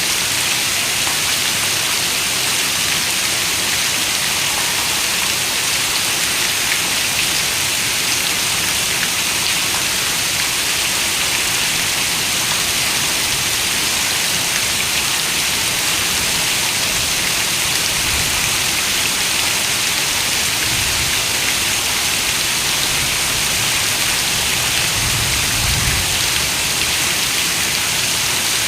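Steady rain falling on a window, an even hiss without let-up. A few soft low rumbles come and go in the last third.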